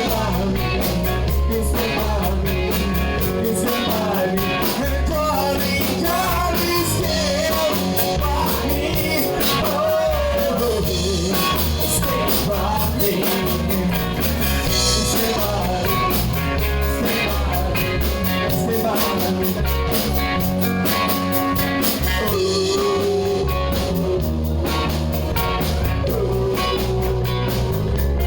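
Live rock band playing a rock-and-roll song, with drums and a singing voice over the band.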